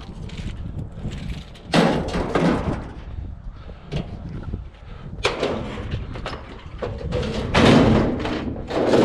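Scrap being handled and loaded, with thuds and clattering knocks. There is one burst about two seconds in and a longer, louder stretch from about five seconds in.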